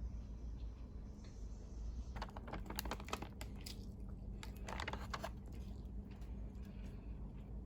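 Bursts of quick light clicks and rustling, two clusters a couple of seconds apart, over a steady low room hum.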